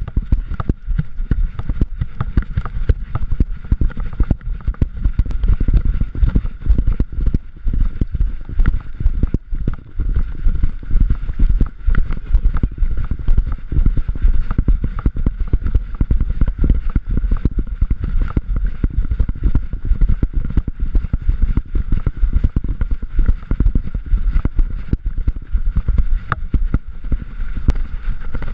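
Continuous rapid thumping and rubbing from a GoPro camera strapped to a gray wolf, jostled and knocked about as the animal moves.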